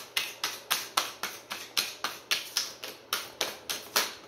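A deck of tarot cards being shuffled by hand: a steady run of crisp card slaps, about five a second.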